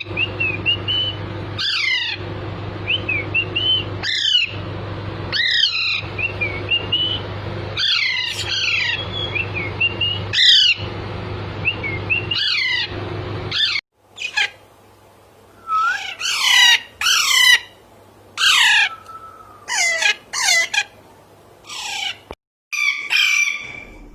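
Alexandrine parakeets calling: harsh squawks that fall in pitch, about one every two seconds, with softer chirps between them over a steady low hum. About halfway through the hum stops and the squawks come faster.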